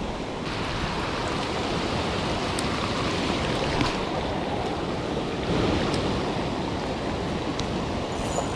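Steady rush of fast-moving water flowing out below a dam spillway.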